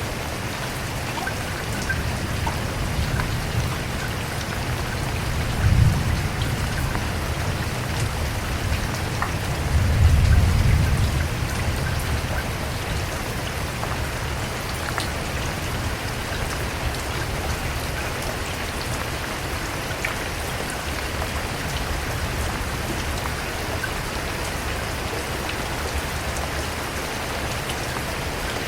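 Steady, even rain. Two short low rumbles rise over it, a brief one about six seconds in and a longer one around ten seconds.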